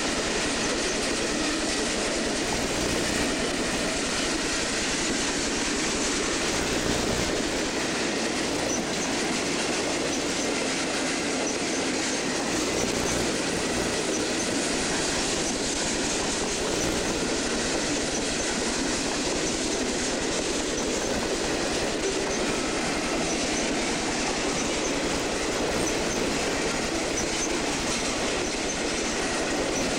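Freight train cars rolling past, a steady, unbroken noise of steel wheels running on the rails.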